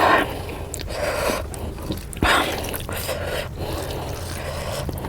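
Close-miked wet eating sounds: chewing and squishing of oily fish curry with rice, with two stronger bursts, just after the start and about two seconds in.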